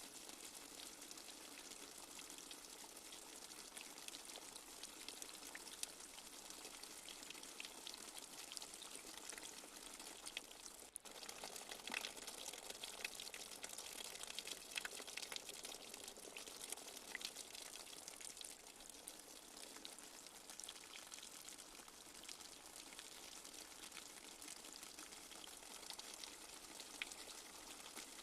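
Soft, steady light rain: an even hiss full of small separate drips and patters. It drops out briefly about eleven seconds in, then comes back a little louder, with more distinct drops for a few seconds.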